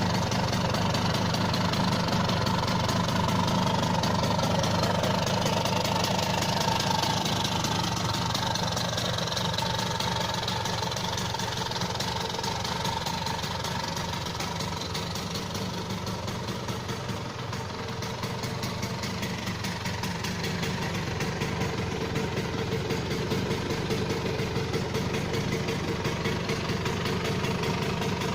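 Vespa 50 Special's two-stroke engine, bored out with a Malossi 112 cc kit, idling steadily through a chromed Faco torpedo silencer that gives it a metallic-sounding exhaust note. Its level sags a little midway and comes back up.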